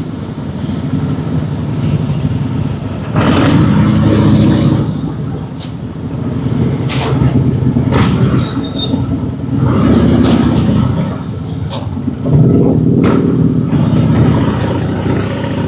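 Motorcycle engine running under way, its note swelling louder in four surges a few seconds apart as the throttle is opened and eased off.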